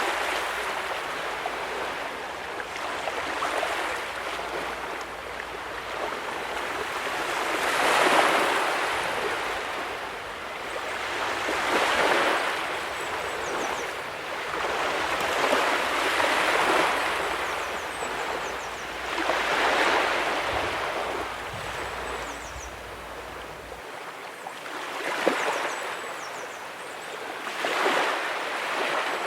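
Ocean waves breaking and washing up a beach, a surge of rushing surf swelling and fading every few seconds.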